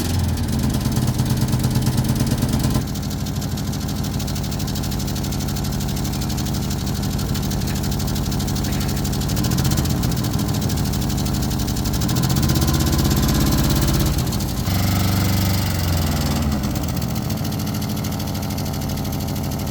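Freshly repaired vehicle's engine running on a test run, mostly idling steadily, with revs raised and let fall a few times in the middle and latter part.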